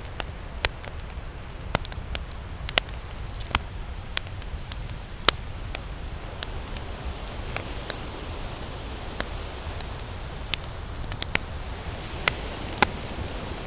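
Wood campfire crackling, with sharp irregular pops and snaps a second or so apart over a steady low rumble of surf.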